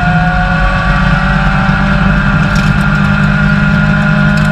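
Suzuki K8 1000 cc inline-four motorcycle engine in a Fićo race car, running under way and heard from inside the cabin. Its note holds nearly steady, with only slight rises in pitch.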